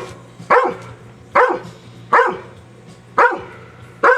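A dog barking, one short bark roughly every second, about six barks in all.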